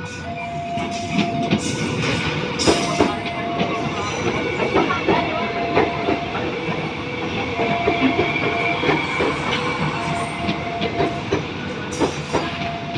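KRL Commuter Line electric train passing at speed, its wheels clicking over the rail joints with a steady rumble. Over it a single tone sounds about every two and a half seconds, the level-crossing warning alarm.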